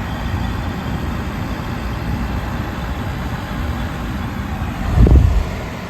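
2010 Everstar 10,000 BTU portable air conditioner running steadily, its compressor cooling and fan blowing. A brief low rumble comes about five seconds in.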